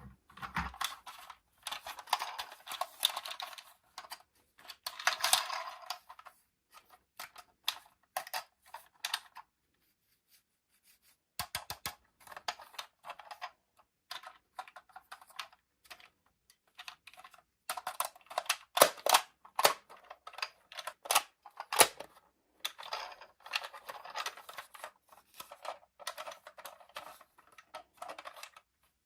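Toy packaging being handled and opened: irregular crinkling, rustling and clicking in bursts, with a couple of short pauses.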